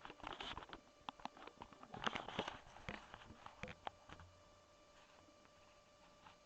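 Scattered light taps and clicks for about four seconds, then only a faint steady hum.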